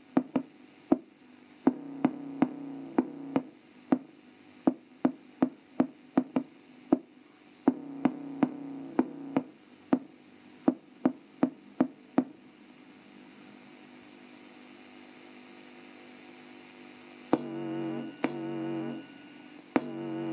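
A bass test track playing through the small built-in speaker of an Orion VHS combo CRT TV: sharp beat hits about twice a second with sustained low notes. About twelve seconds in the beat stops and a faint steady hum is left, then wavering low tones come in near the end.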